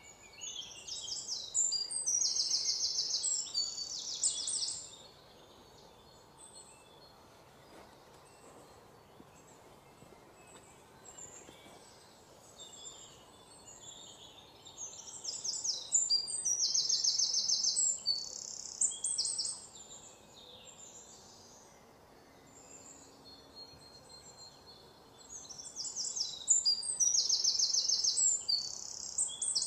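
A songbird singing in three bouts of about four seconds each, every bout a quick run of high, repeated notes, with only a faint steady hiss between them.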